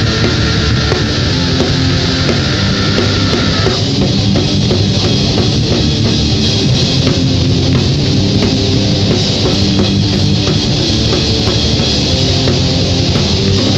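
Rock band playing an instrumental passage live, with guitar and drum kit. A sustained higher guitar line drops out about four seconds in, leaving the drums and lower guitar parts.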